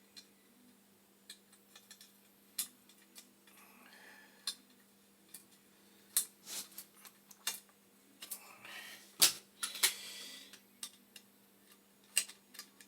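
Scattered small metallic clicks, taps and brief scrapes of hand-tool work as screws and a metal mounting bracket are fitted on a boiler's ignition conversion, with one sharper knock about nine seconds in.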